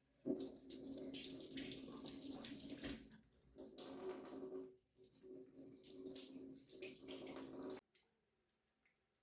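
Tap running water into a sink, with a couple of brief breaks, shutting off suddenly near the end.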